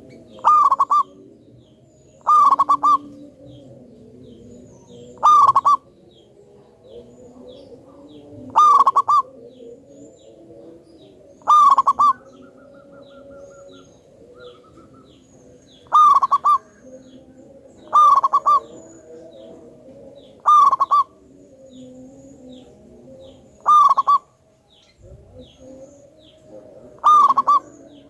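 Zebra dove (perkutut) cooing: its short, trilled, loud coo phrase repeated about ten times, every two to four seconds.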